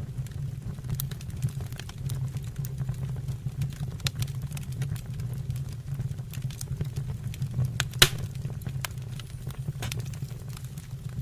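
Wood fire burning in a fireplace: a steady low rumble of flame with scattered crackles throughout and one sharp, louder pop about eight seconds in.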